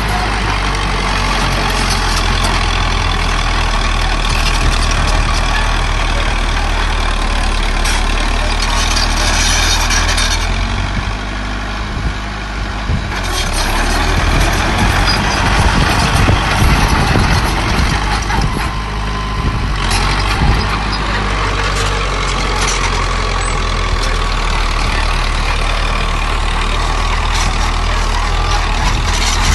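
Diesel engines of earthmoving machinery, a small bulldozer and dump trucks, running at a worksite: a steady low engine drone with mechanical noise over it that dips briefly about midway and then comes back.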